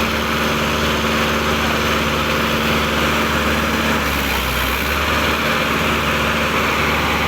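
Mahindra 585 tractor's diesel engine running steadily.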